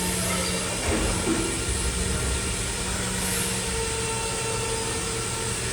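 Steady drone of running machinery with a low hum, and a couple of faint knocks about a second in.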